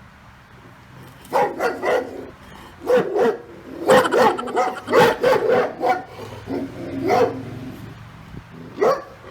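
A dog barking repeatedly in clusters of short, sharp barks with brief pauses between them, starting about a second in.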